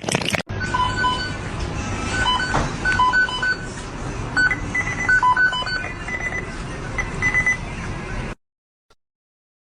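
A run of short electronic beeps at several different pitches in an irregular sequence, over steady background noise; it cuts off suddenly about a second before the end.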